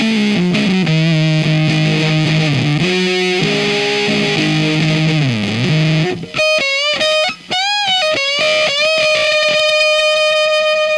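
Electric guitar played through a Diaz Square Face-style fuzz pedal, on the top-and-middle pickup setting. Low fuzzed riffing with a deep bend for about six seconds, then higher lead notes with wide bends and vibrato, ending on one long sustained note.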